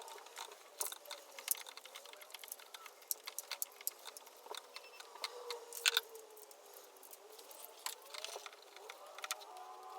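Irregular light clicks and clinks, scattered unevenly, with the sharpest one about six seconds in, over faint wavering tones.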